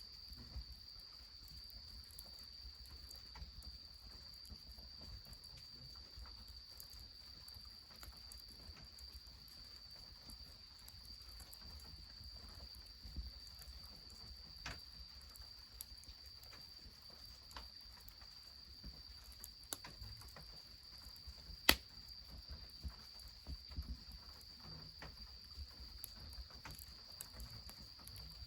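Wood fire under an iron bathtub crackling quietly, with scattered sharp pops, one louder about two-thirds of the way through. A steady high-pitched insect trill runs underneath.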